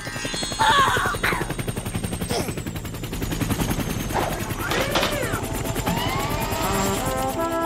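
Cartoon helicopter sound effect: a rapid, even chopping of rotor blades, with a few swooping glides over it. Music with stepped notes comes in near the end.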